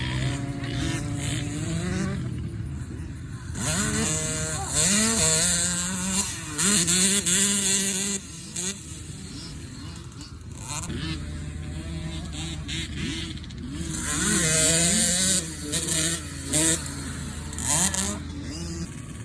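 Motocross dirt bikes racing, their engines revving up and dropping back through gear changes. The sound swells louder as bikes pass close, about four seconds in and again near the end.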